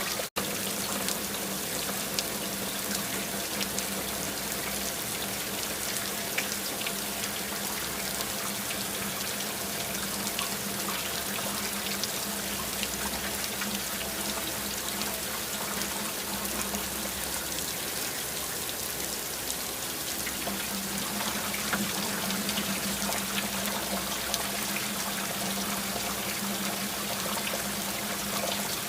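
Steady rain: a dense hiss of falling water with many small drop ticks, with a splashing, tap-like flow of water. A steady low hum lies under it, fading for a few seconds midway, and the sound cuts out for an instant about half a second in.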